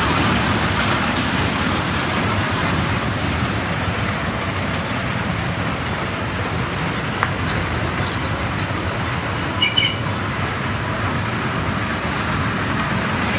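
Steady rumble and noise of a moving train, with a brief cluster of clicks and short high squeaks near the ten-second mark.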